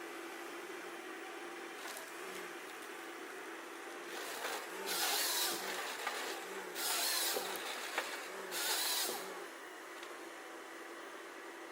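A forestry machine running steadily, with three loud, rushing bursts of about a second each starting about four and a half seconds in, and a sharp click among them.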